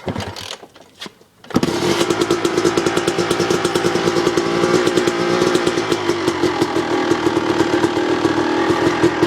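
Yamaha YZ250 two-stroke dirt bike engine being kick-started from cold. It catches about a second and a half in, then runs steadily with a rapid, crackling firing beat, on a freshly replaced spark plug after the old one fouled.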